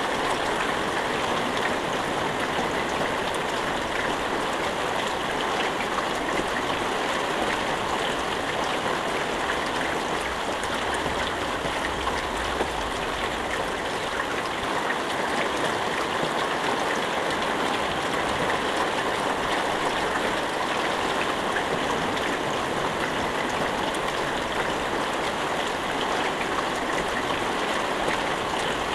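Steady rain falling: an even, unbroken hiss dotted with the fine patter of drops, with no thunder.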